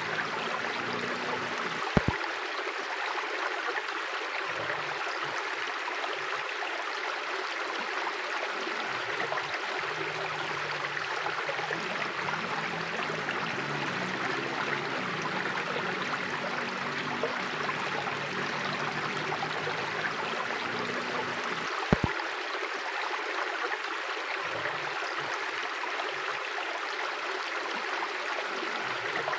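River water flowing steadily over stones, an even rushing and gurgling. Two brief sharp clicks break it, about two seconds in and again some twenty seconds later.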